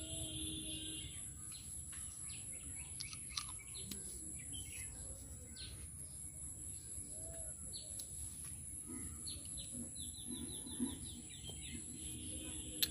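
Small birds chirping in quick repeated calls over a steady high-pitched whine, with a couple of light clicks.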